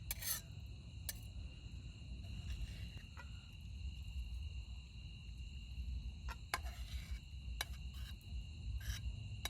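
Night chorus of crickets, a steady high-pitched trill on two pitches, with a low rumble underneath and a few scattered sharp clicks and knocks.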